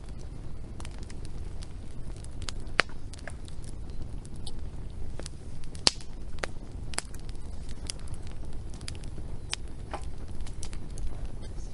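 Wood fire crackling: irregular sharp pops and snaps over a steady low rumble, with louder pops about three and six seconds in.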